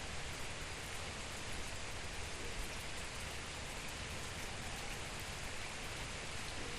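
Steady rain falling, an even hiss of drops on surfaces with no breaks or changes.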